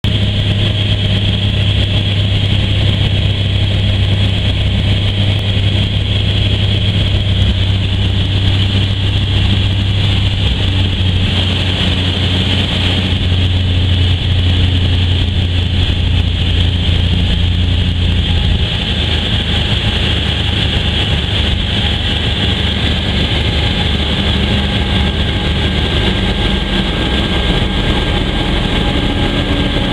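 Cessna 182's six-cylinder piston engine and propeller droning steadily; the deep engine note eases somewhat about two-thirds of the way through.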